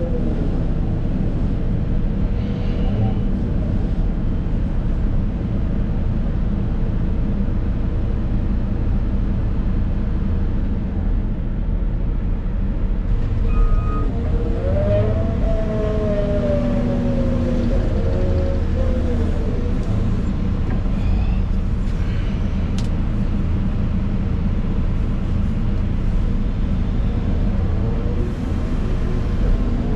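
Excavator's diesel engine running steadily under load, heard from inside the cab, with a whine that rises and falls in pitch for several seconds about halfway through as the hydraulics work.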